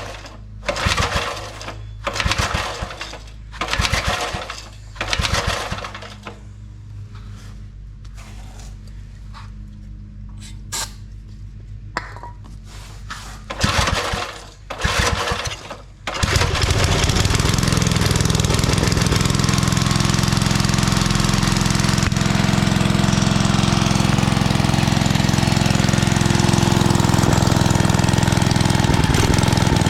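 Old 5 hp Briggs & Stratton engine being pull-started: a run of cranking pulls about a second apart, a pause, two more pulls, then it catches a little past halfway and runs steadily.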